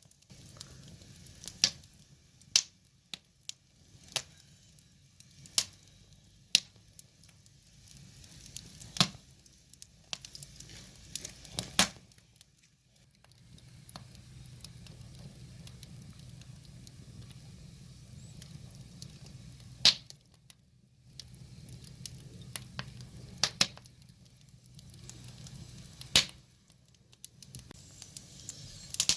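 Burning firewood crackling, with sharp irregular pops a second or several seconds apart over a low steady background.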